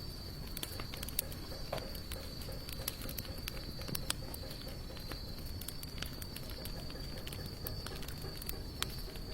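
Wood fire of sawtooth oak and mixed hardwood crackling, with sharp pops coming at irregular moments. Under it runs a steady, high-pitched insect trill.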